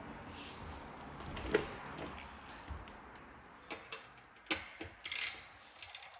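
Irregular mechanical clicks and rattles, sparse at first and coming thicker in the last two seconds, the way small metal parts or a hand tool sound when handled.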